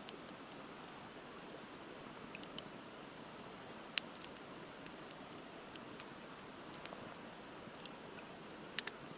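Wood campfire crackling with sparse sharp pops, the loudest about four seconds in and a quick cluster of two or three near the end, over the steady rush of a river.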